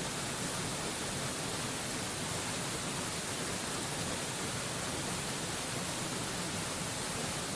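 Steady, unbroken rushing of a mountain waterfall, an even hiss strongest in the treble.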